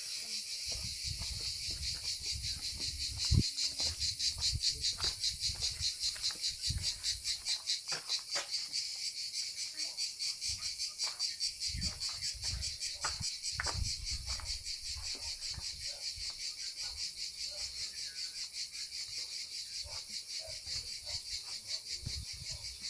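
A steady chorus of insects in a fast, dense pulsing trill, with soft low thumps and faint clicks underneath.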